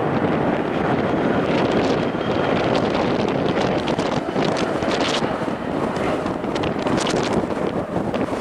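Strong gusting wind buffeting the camera microphone: a steady, heavy rumble with crackling flurries, more of them in the second half.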